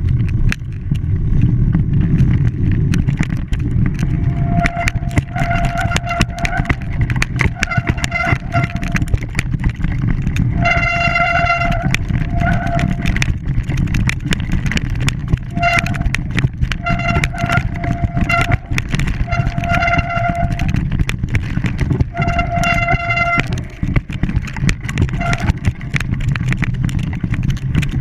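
A horn sounding over and over in short toots and longer blasts, all at one pitch, for most of the stretch. Under it runs a steady low rumble with scattered clicks.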